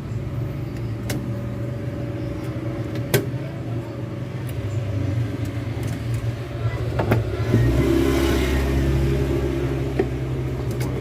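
An engine running steadily with a low hum, growing louder for a couple of seconds about eight seconds in, with a few sharp clicks.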